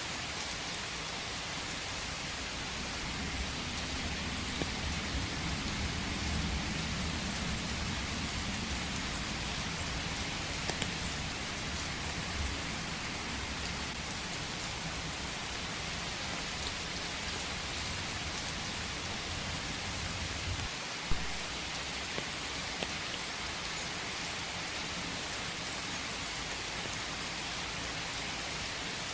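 Steady rain falling in a forest, an even hiss of drops. A low rumble swells under it for several seconds early on, and a single sharp tap stands out about 21 seconds in.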